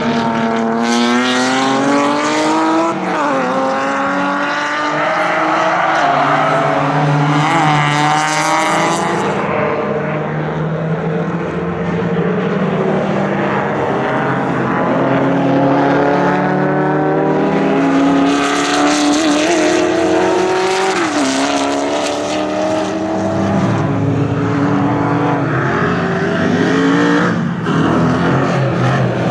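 Race car engines accelerating hard through the gears. The pitch climbs and drops back at each upshift, with the clearest shifts about three seconds in and about twenty-one seconds in.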